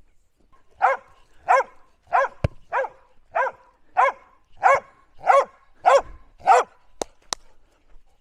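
A dog barking nine times in a steady rhythm, about one bark every 0.6 seconds, followed by two sharp clicks near the end.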